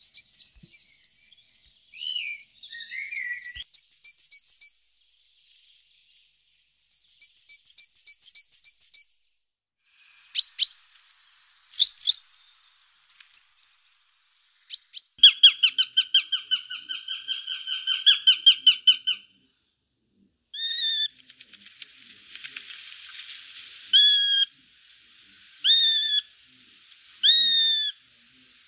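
Small songbirds singing and calling in separate phrases of quick repeated high notes, with short silent gaps between them, including a fast trill about halfway through. Near the end comes a series of short rising-then-falling calls, about one every two seconds.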